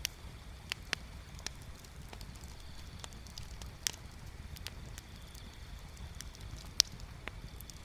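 Wood bonfire crackling, with irregular sharp pops and snaps over a low steady rumble; the loudest pop comes about seven seconds in.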